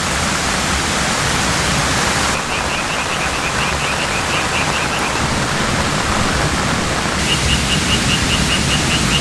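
Steady, loud rushing of falling water, with two rapid runs of high, evenly spaced chirps, about five a second, from a small animal: one about two seconds in and one near the end.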